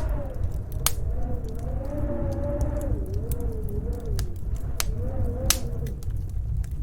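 Snowstorm wind howling: a low rumble under a thin whistle that wavers up and down in pitch. Sharp crackles and pops from a wood fire sound every so often over it.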